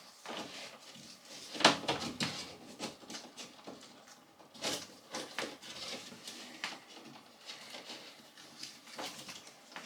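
Irregular clicks, taps and knocks of small parts and tools being handled in a small room, with the sharpest knocks a little after a second and a half and about four and a half seconds in.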